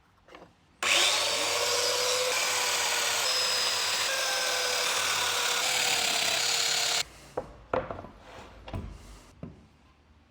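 Domino joiner spinning up about a second in and running steadily for about six seconds as it cuts a mortise in wood for a floating tenon, then cutting off suddenly. A few light knocks of wood follow.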